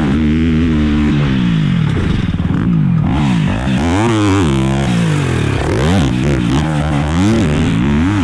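Four-stroke off-road race engines, more than one, revving up and falling off again and again as they are ridden around the track.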